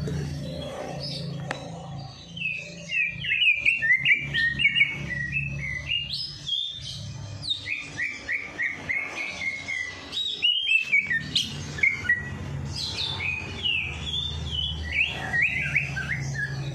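Songbird singing a fast, chattering song of quick repeated chirps, starting a couple of seconds in, with a low steady hum beneath.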